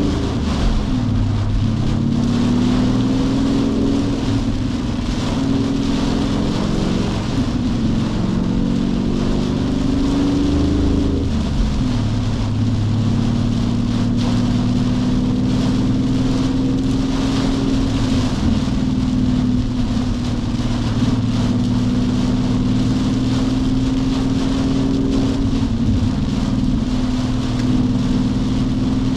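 Heard from inside the cabin, a Mustang GT's V8 with an MBRP cat-back race exhaust drones along under way, over the steady rush of heavy rain and wet road noise. The engine's pitch shifts up and down during the first dozen seconds, then holds steady at a cruise.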